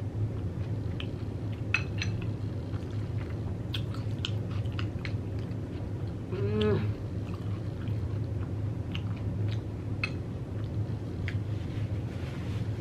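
Close-miked chewing and crunching of Xxtra Hot Cheetos in a taco bowl, with scattered sharp crunches over a steady low hum. A brief vocal sound comes about six and a half seconds in.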